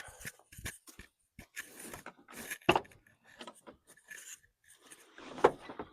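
Irregular clinks, rattles and knocks of tools and metal objects being moved about in a search for a hammer, with two sharper knocks, one near the middle and one near the end.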